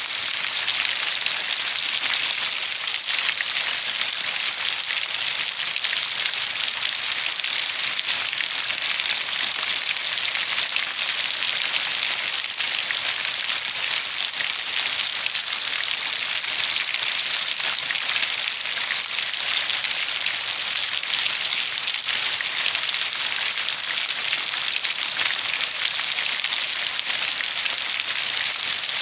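Steady, heavy rainfall: a dense, even hiss of countless raindrops hitting a surface, with no let-up or distinct louder events.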